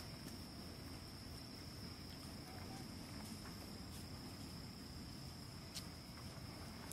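Insects trilling in one steady, high, unbroken tone, faint, over a low background hum, with a single sharp click near the end.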